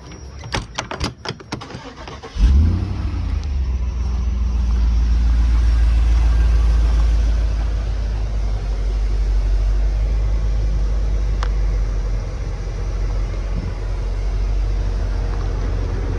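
2014 Isuzu NPR truck's 6.0-litre LPG engine cranking briefly and catching about two seconds in, then running with a steady low rumble that rises for a few seconds and settles to an idle.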